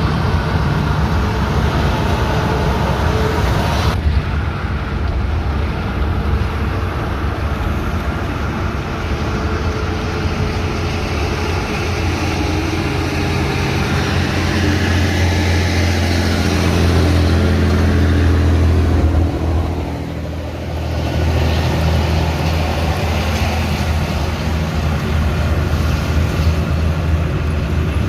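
Scania 112H truck's six-cylinder diesel engine running under load, its pitch climbing steadily over several seconds. About two-thirds of the way through the sound suddenly drops and dips briefly, then the engine pulls on again.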